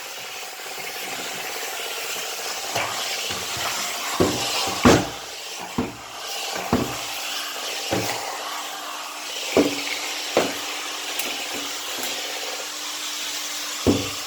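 Bissell steam cleaner hissing while it scrubs a bathtub, a steady rubbing noise broken by about eight sharp knocks from the middle of the stretch onward.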